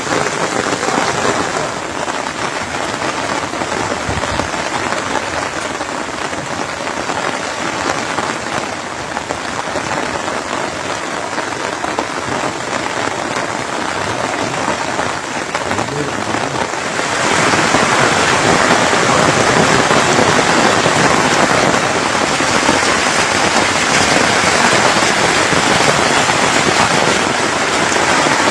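Steady rain falling, with no other clear sound over it. It turns suddenly louder and brighter a little over halfway through and stays that way.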